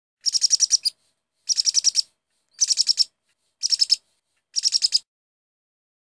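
Bird chirping: five bursts of rapid, high chirps about a second apart, each a quick run of six to eight notes.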